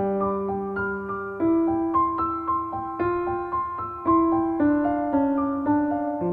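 Soft, slow piano music: gentle sustained notes over held bass notes.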